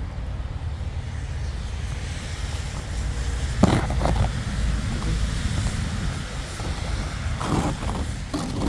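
A steady low outdoor rumble, with short scrapes of snow being cleared off a car: a few strokes about three and a half seconds in, then more near the end.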